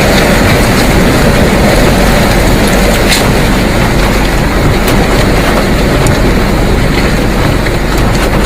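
Loud, steady rush of strong storm wind with a heavy low rumble, buffeting the microphone near a tornado.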